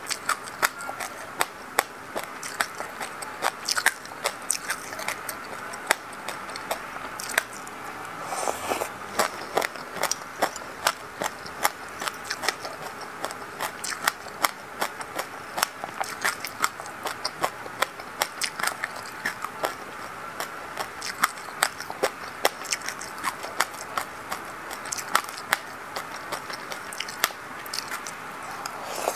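Close-miked chewing of sesame seeds in passion fruit juice: a dense, irregular run of small crunches and crackles through the whole stretch.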